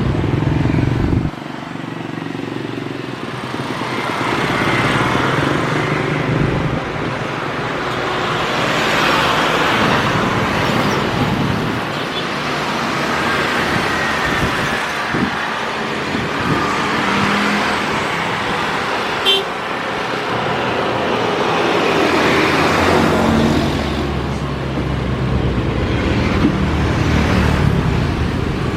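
Road traffic: a steady run of vehicles passing, swelling and fading every few seconds, with a short horn toot about two-thirds of the way through.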